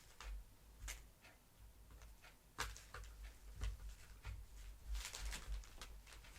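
Irregular light clicks and taps of a vacuum cleaner's plastic brush-head parts being handled during disassembly, the sharpest about two and a half and five seconds in.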